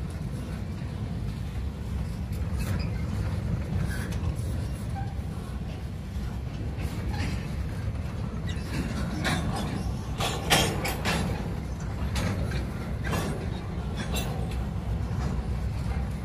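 Freight train's container wagons rolling past: a steady low rumble of steel wheels on rail, with scattered clicks and knocks from the wheels and couplings, the sharpest about ten seconds in.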